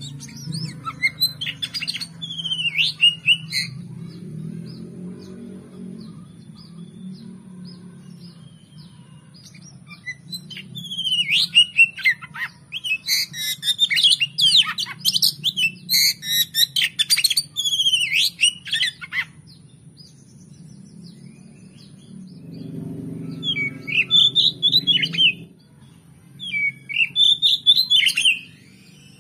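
Oriental magpie-robin (kacer) singing in bouts of rapid, varied whistled and chattering phrases. The longest bout runs from about ten to nineteen seconds in, with shorter bursts near the start and near the end. A low hum runs beneath.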